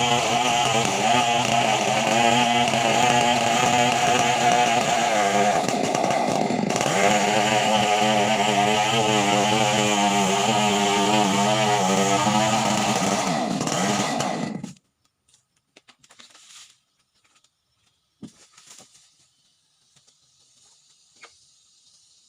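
Two-stroke chainsaw running at high revs, its pitch wavering slightly as it works through wood, then stopping abruptly about fifteen seconds in. A few faint knocks follow.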